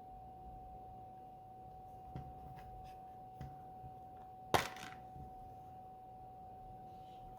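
A few light clicks, then one sharp snap about halfway through, over a steady faint high whine.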